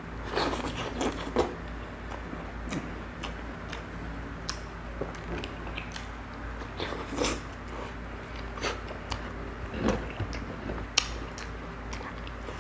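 Close mouth sounds of eating: chewing and lip-smacking on a mouthful of pechay leaves in coconut-milk sauce, heard as scattered wet clicks and short bursts.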